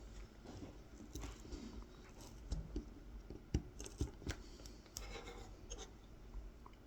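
Kolrosing knife scoring fine lines into a carved wooden honey dipper: faint scratching of the blade in the wood, with a few sharp ticks of short stabbing cuts in the middle.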